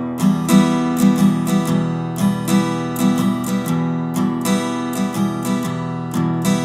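Background music: an acoustic guitar strumming a steady chord pattern, the instrumental intro of a song.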